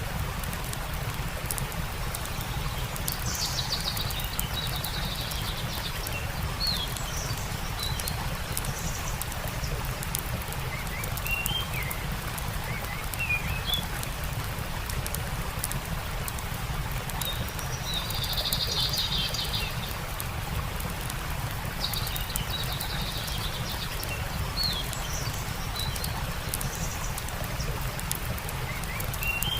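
Steady rushing of a stream with a campfire's faint crackles, while small birds chirp at intervals, a longer trilling call coming three times.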